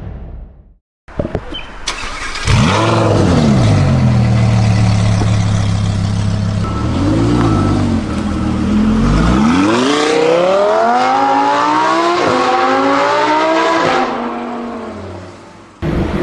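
Lamborghini supercar engine revved: a sharp rise and fall in pitch, a steady hold and a short blip, then hard acceleration with the pitch climbing, dipping briefly at a gear change and climbing again before fading away.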